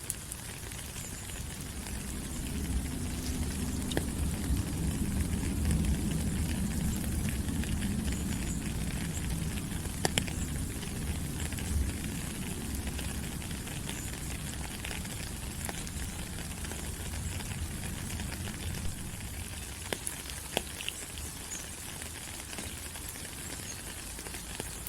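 Steady tropical rain falling on rainforest leaves, an even hiss with heavier drops ticking now and then. A low rumble swells in after about two seconds and fades away again before the end.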